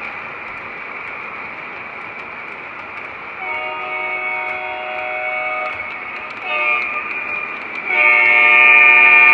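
An O scale model diesel locomotive's electronic sound system blowing its multi-chime horn: a long blast, a short toot, then a longer, louder blast, over a steady high-pitched hum.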